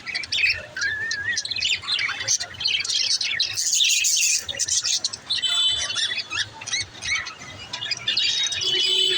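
Budgerigars chattering and warbling together, a dense run of quick chirps with a louder burst about four seconds in and a few held whistled notes later.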